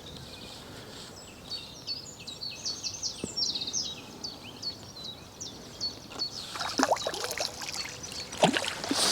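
A small songbird singing a fast run of short, high chirping notes from about a second and a half in until about six seconds in, over faint outdoor background noise. Near the end come a few soft clicks and rustles.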